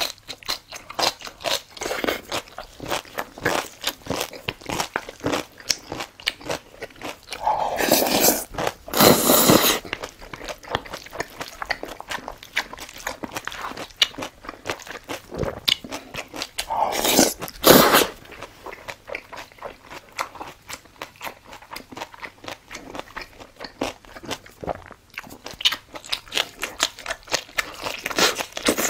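Close-up chewing and crunching of crunchy food, a dense run of quick crisp bites, with louder, longer stretches about eight and seventeen seconds in.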